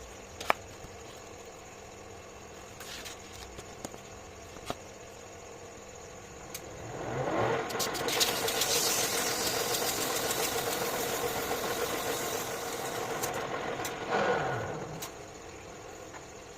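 Lathe motor spinning up with a rising whine about seven seconds in, running steadily for about seven seconds, then winding down with a falling pitch. A few light clicks come before it.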